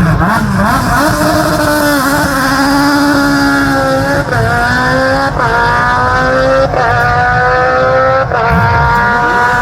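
Hillclimb race car engine accelerating hard, its pitch climbing in each gear and dropping sharply at about five quick upshifts.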